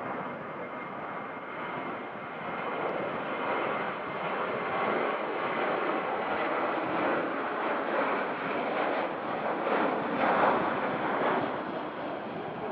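Airliner's engines passing close, a steady rushing noise with a faint whine that swells to its loudest about ten seconds in, then eases off.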